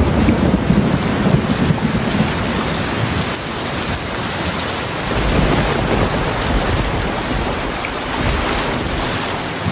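Heavy rain pouring steadily, with low rolling thunder. The rumble swells at the start and again about five seconds in.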